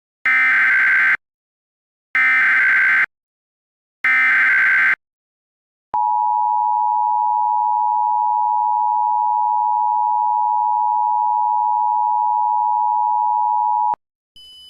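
Emergency Alert System tones: three short bursts of SAME digital header data, then the two-tone attention signal held steadily for about eight seconds before it cuts off. Together they open an emergency alert broadcast, here an evacuation order.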